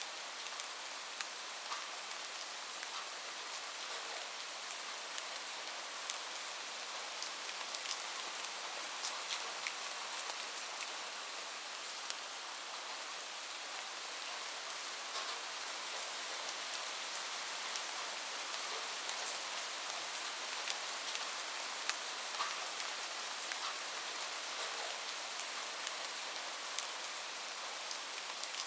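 Steady rain falling on a roof, a constant hiss with many separate drop taps crackling through it.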